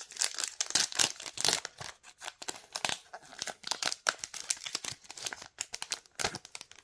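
Foil wrapper of a trading-card booster pack crinkling and tearing as it is ripped open by hand, in a dense run of irregular crackles that is thickest in the first few seconds.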